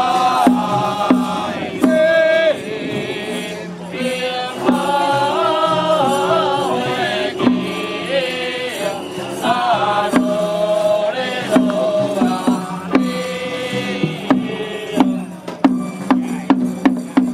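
Chant-like ritual music: a bending, gliding melody over a steady percussion beat of roughly one stroke every 0.7 seconds. Near the end the beat gives way to a quick, even run of wooden-sounding strikes.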